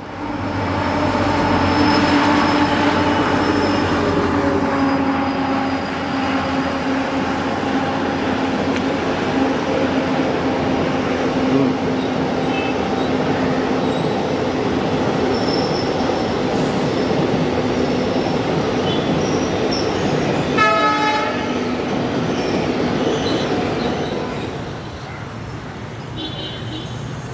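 Passenger train running by with its EMD WDP4-family diesel locomotive, a steady engine drone over the rumble and clatter of the coaches on the rails. A short horn blast sounds about twenty seconds in, and the sound eases a little near the end.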